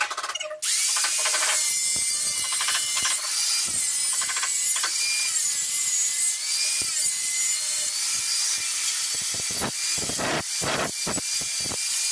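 Power cutting tool running and cutting through a pipe, starting about half a second in; a steady high whine whose pitch dips each time the blade bites.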